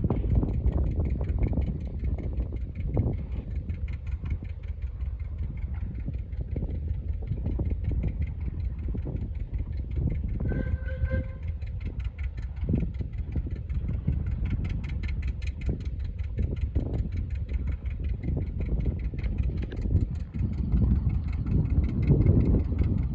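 An engine running steadily with a fast, even beat. A short pitched tone sounds once, about eleven seconds in.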